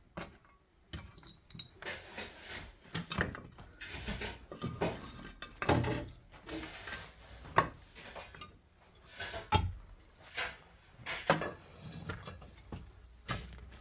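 A dozen or so irregular clinks and knocks of hard objects being handled and set down, spaced unevenly, with a few louder knocks in the middle and later part.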